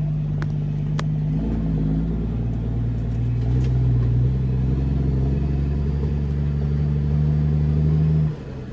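Straight-piped CAT C13 diesel in a loaded Kenworth W900B dump truck pulling away, a steady engine note that steps down in pitch and gets louder about three and a half seconds in. Near the end the engine sound drops off sharply.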